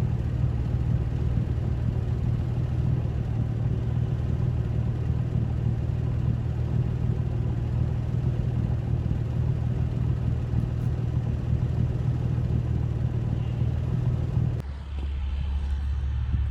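Steady low rumble of a car driving along the road. The sound changes abruptly near the end.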